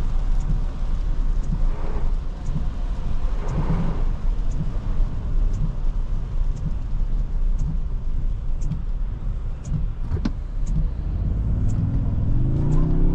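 Cabin noise of a 2023 Toyota Tundra 1794 driving on wet roads: a steady low road-and-tyre rumble with a faint tick about once a second. Near the end a humming engine note comes in and rises as the truck pulls away.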